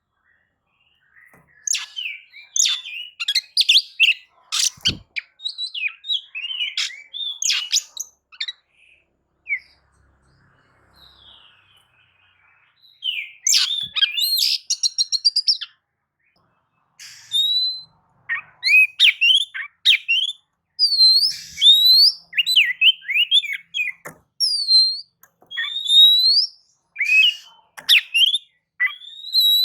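Oriental magpie-robin (kacer) in full song: a varied stream of sweet whistles, chirps and quick rattling trills. It pauses for a few seconds about a third of the way in, then resumes with repeated upswept whistles.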